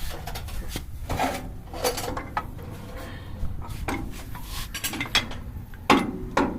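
Metal clanks and knocks from a car-type jack and hand tools being handled and set under a tractor, with a sharp, loud clank near the end.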